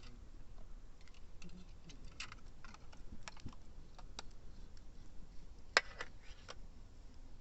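Wood campfire crackling: faint, irregular snaps and pops, with one sharper, louder pop about three-quarters of the way through.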